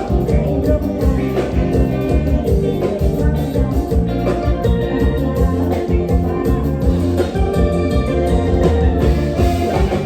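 Live Isan band playing an upbeat toei lam (mor lam) tune with a steady beat.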